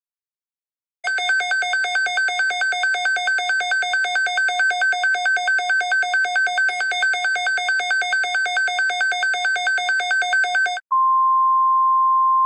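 Emergency alert attention signal: a pulsing two-pitch electronic alarm, buzzy with overtones, about four to five pulses a second for roughly ten seconds, then, after a brief break, a steady single-pitch alert tone.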